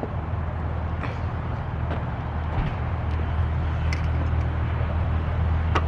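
Steady low mechanical hum, such as a motor or engine running, with a few faint clicks and taps over it.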